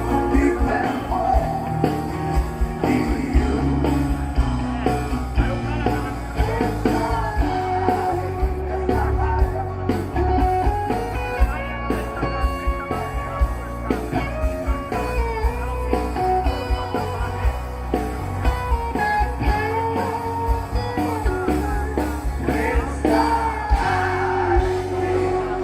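Live rock band playing a song: a sung vocal line over electric guitar, bass and a steady drum beat.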